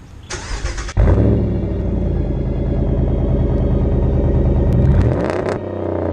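A 2011 Ram 1500's 5.7 Hemi V8 through a muffler-delete exhaust: a brief crank, then the engine catches about a second in and runs loud and steady. Near the end the pitch shifts and the engine settles a little lower.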